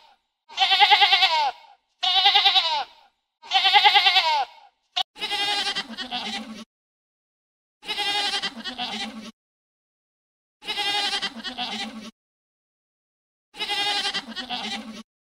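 Three loud, pitched animal calls, then a click about five seconds in and four long, wavering bleats spaced about three seconds apart.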